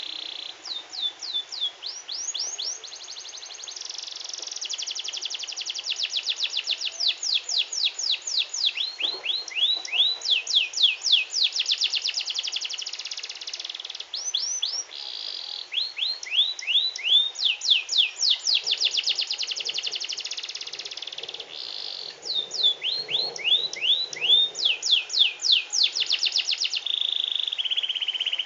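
Canary singing continuously: fast trills of repeated downward-sweeping notes, several a second, switching to a new phrase every one to three seconds, with a few steadier rolling notes between phrases.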